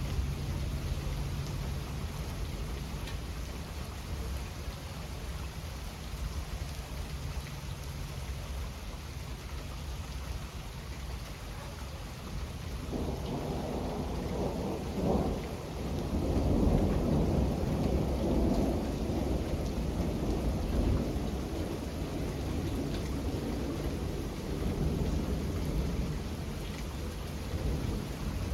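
Steady rain, with a long roll of thunder that comes in about halfway through, swells a few seconds later and rumbles on to the end.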